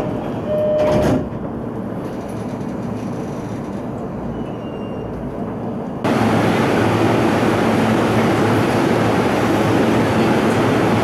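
Steady running noise from inside a moving electric commuter train. About six seconds in it cuts abruptly to a louder, steady rush of train noise on an underground station platform.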